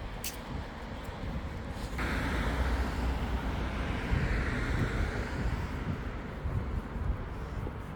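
Street traffic noise with wind rumbling on the microphone. A louder hiss, like a passing vehicle's tyres, comes in suddenly about two seconds in and fades away over the next few seconds.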